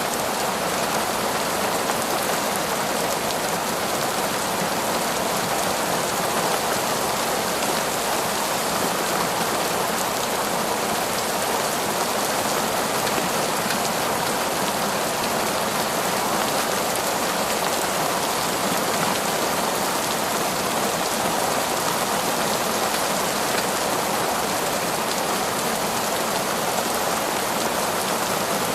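Heavy torrential rain falling on a forest, a steady, dense hiss of drops without a break.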